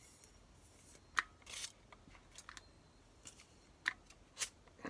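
Foam being cut and picked at to carve rock-like grooves: a few sharp snapping clicks and a short crunching scrape.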